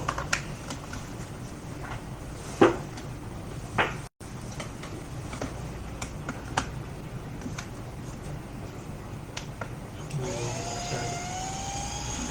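Steady whooshing noise with a few sharp clicks, then about ten seconds in a whine starts and rises steadily in pitch: the Alienware 15 R2 laptop's cooling fans spinning up as it powers on.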